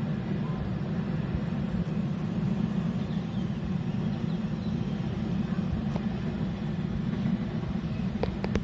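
Steady low rumble of a container freight train rolling across a viaduct, with a few short clicks near the end.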